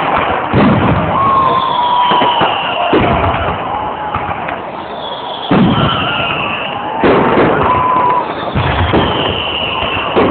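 Fireworks shells bursting in the sky: five sharp booms about one and a half to two and a half seconds apart, each with a rolling echo.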